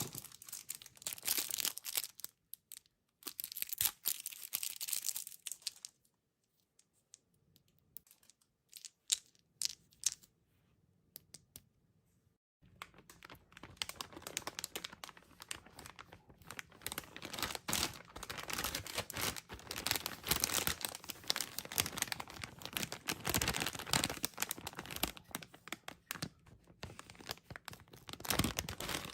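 Plastic candy wrappers crinkling and tearing as packets are opened by hand. The sound comes in bursts for the first few seconds, then drops to a few light clicks and taps for about six seconds, then turns to steady crinkling from about halfway through.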